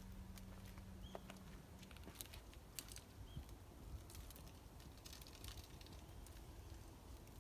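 Wood fire crackling faintly, with irregular sharp pops and snaps.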